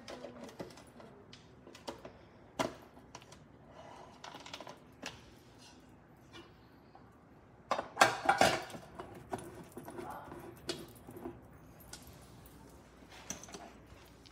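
Hard objects being handled: scattered clicks and knocks, with a louder clatter about eight seconds in.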